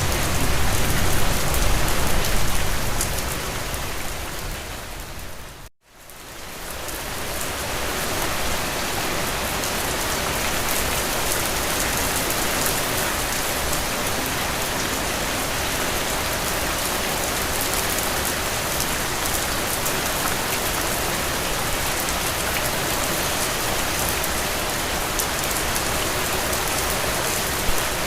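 Steady rain falling on a surface, a dense, even hiss of drops. About six seconds in it fades out to a moment of silence, then fades back in and carries on evenly.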